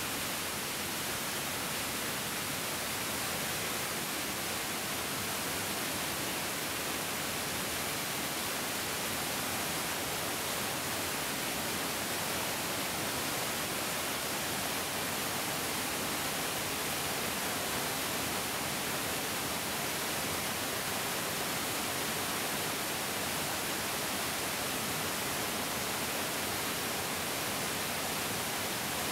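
Mountain stream flowing: a steady, even rush of water with no breaks or changes.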